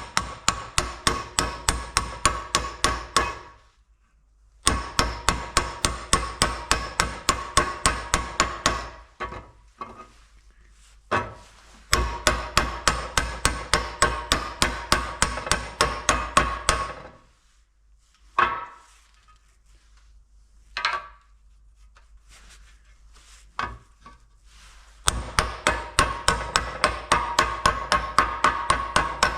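Hammer blows on a metal pulley used as a driver, tapping a new oil seal down into its bore. The strikes come in four quick runs of about four ringing blows a second, with a few single knocks in the pauses between.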